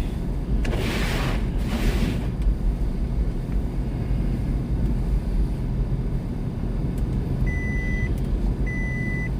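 Steady low rumble of a car driving on a snowy road, heard from inside the cabin, with a brief rush of noise about a second in. Near the end a car's electronic warning beep starts repeating, about once a second.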